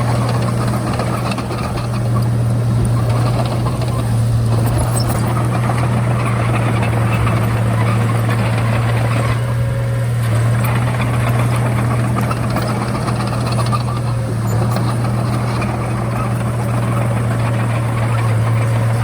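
Komatsu D31A bulldozer's diesel engine running at a steady speed, with an even low hum.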